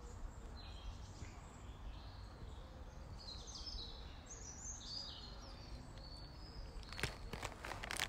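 Small woodland birds chirping and calling faintly in short high phrases, some stepping downward in pitch, over low steady background noise. A few sharp clicks near the end.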